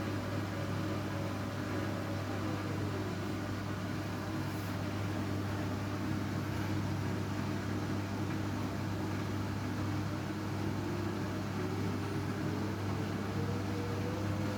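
Washing machine running with a steady hum; its motor whine drops in pitch a couple of seconds in and climbs again near the end as the drum changes speed.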